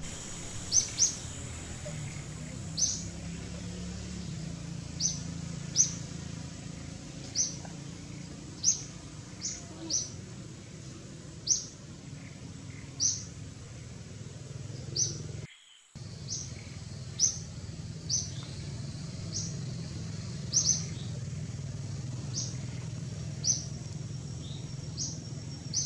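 A bird chirping outdoors: single short, sharp high notes repeated about once a second, over forest ambience with a faint steady high-pitched tone. The sound drops out briefly a little past halfway, then resumes.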